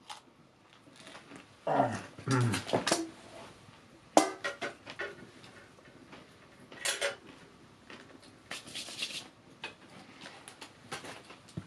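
Metal cookware and cutlery clinking and clattering several times, with a short low vocal sound about two seconds in.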